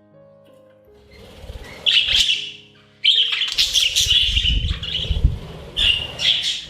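Budgies chirping and chattering in loud bursts, starting about two seconds in, over soft background music.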